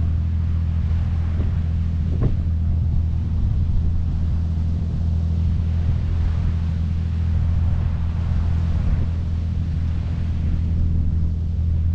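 Nordhavn motor yacht's diesel engine running steadily underway, a low, even rumble with light wind and water noise over it.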